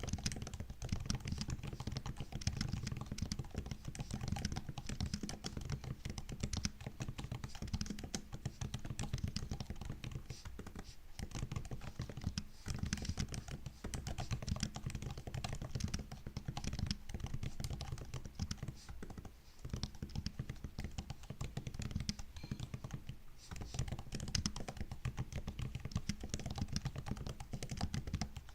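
Continuous fast typing on a MacBook's built-in laptop keyboard: rapid soft key clicks and taps, with a few brief pauses.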